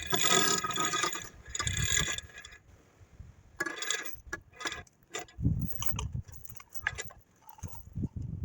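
Scattered metallic clicks and knocks of hand tools and parts being worked on an old truck's clutch and transmission, at irregular intervals with short quiet gaps.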